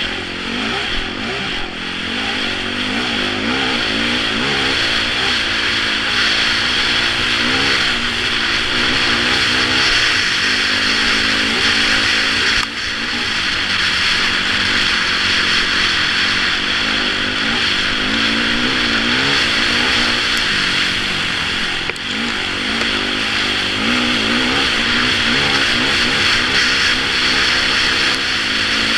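Yamaha YZ450F single-cylinder four-stroke dirt bike engine running under load on a sandy trail, its pitch rising and falling with the throttle, under a steady rush of wind on the helmet camera. The sound dips briefly twice, about a third of the way in and again about three-quarters through.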